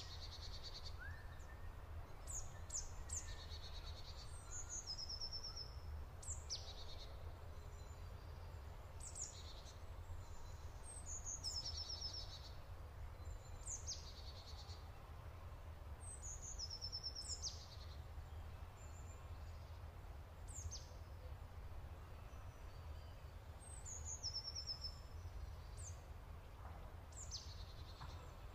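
Asian fairy bluebird calling: sharp, high down-slurred notes and short rapid runs of notes, repeated every couple of seconds, over a low steady background rumble.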